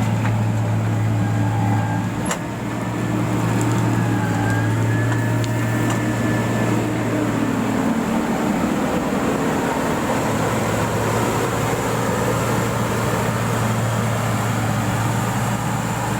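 Diesel engine of heavy road-building equipment running steadily with a strong low hum, the hum easing for a couple of seconds about halfway through before coming back.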